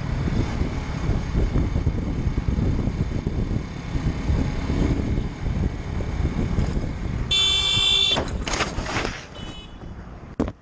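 A car driving, with steady loud road and engine rumble. About seven seconds in, a vehicle horn sounds once, briefly, followed by a short rushing noise as the level drops.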